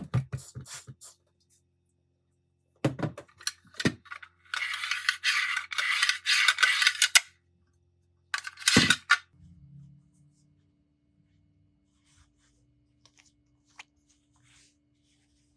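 Small metal parts clicking and clinking as they are handled, with a rough, hissing noise lasting about three seconds in the middle.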